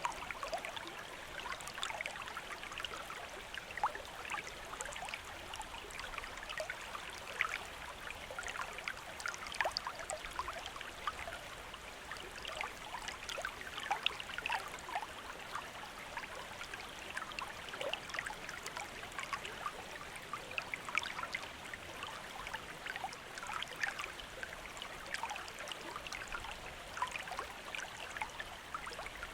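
Running water of a small river or stream, a steady babbling wash full of many tiny splashes and trickles.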